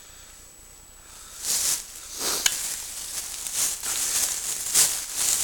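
Irregular rustling and crunching, one or two short bursts a second, starting about a second in, with one sharp click about two and a half seconds in.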